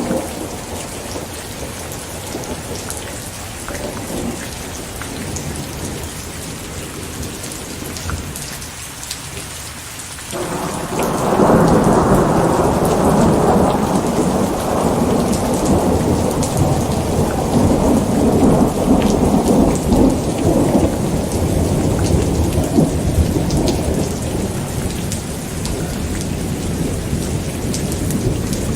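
Steady rain falling, with a long roll of thunder that breaks in suddenly about a third of the way through, rumbles for about ten seconds and slowly fades, then swells again near the end.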